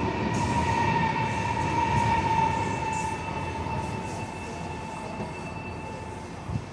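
Chinese high-speed electric train pulling out and gathering speed, with a rumble of wheels on rail under a steady high whine. It fades over the last few seconds as the train moves away.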